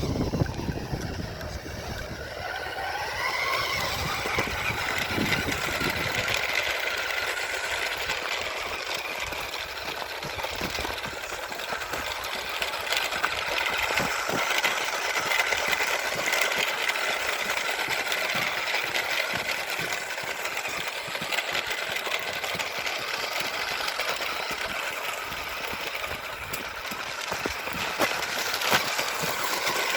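Radio-controlled car's motor and drivetrain whining. The pitch climbs over the first few seconds, then holds high and fairly steady.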